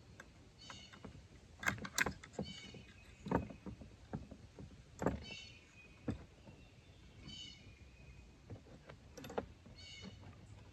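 Rifle parts handled on a table: a series of sharp knocks and clicks of wooden stock and handguard pieces and metal fittings being picked up, turned and set down. A short high chirp repeats about every two seconds underneath.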